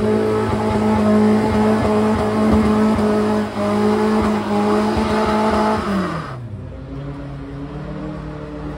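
Saloon car's engine held at steady high revs on a steep, muddy hill climb, then the revs fall away about six seconds in and the engine settles to a lower, quieter note.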